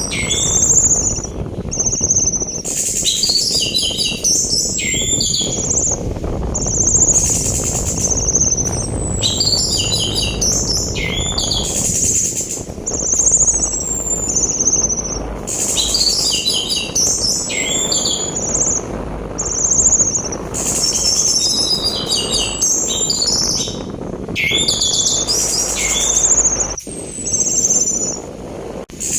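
Orange-headed thrush singing in short repeated phrases of high whistles and quick chattering notes, a phrase every few seconds, over a steady rush of sea wind.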